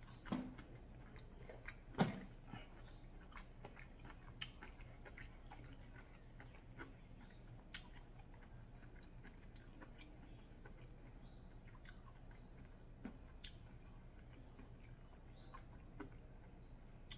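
Close-miked mouth chewing a bite of sausage: soft wet smacks and clicks scattered through, with a louder smack about two seconds in, over a faint steady hum.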